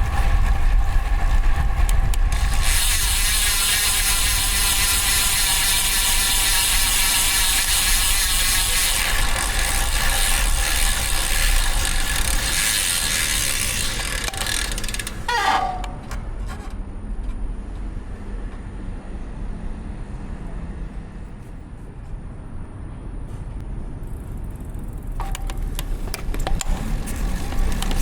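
Road bike riding with wind and road noise and the rapid ticking of the DT Swiss rear hub's freewheel ratchet while coasting. About halfway a short falling squeal, after which the noise drops as the bike slows, rising again near the end as riding resumes.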